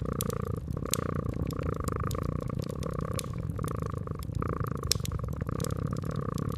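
Cat purring steadily, its rumble swelling and easing about once a second, with frequent small crackles and pops from a fireplace fire.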